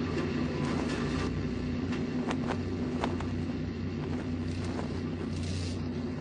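A heavy machine or vehicle running with a steady low hum, and a few sharp clacks or knocks scattered through it.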